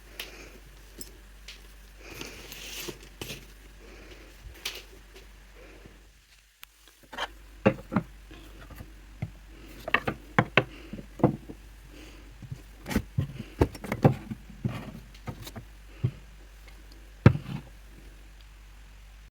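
Handling noise of a vintage Coach leather bag being worked on: scattered light clicks, taps and small metal clinks. The taps come thicker and sharper in the second half, after a short quiet gap about six seconds in.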